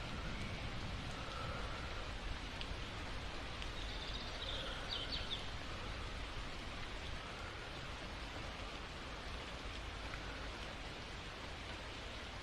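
Steady rain falling, an even hiss of drops, with a few brief high chirps about four to five seconds in.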